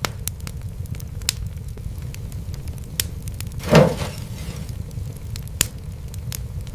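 Wood fire crackling: scattered sharp pops and snaps over a steady low rumble. A louder, brief rushing flare sweeps down in pitch a little past the middle.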